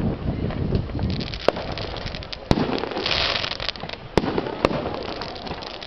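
Aerial fireworks going off: a string of sharp bangs from bursting shells over continuous rumbling, with a burst of dense crackling about three seconds in.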